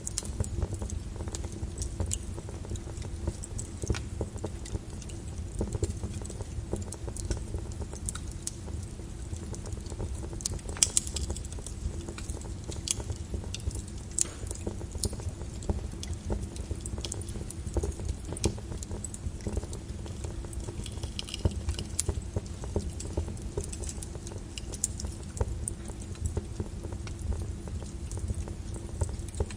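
Flowing lava crackling: many irregular sharp clicks and cracks from the breaking crust, over a steady low rumble.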